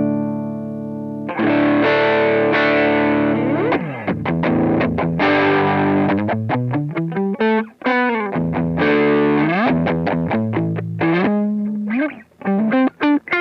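Electric guitar played through a Nux MG-300 multi-effects processor on a distorted tone. A chord rings out and another is struck just over a second in. Then comes a lead line of single notes with string bends and vibrato, ending in quick, short picked notes.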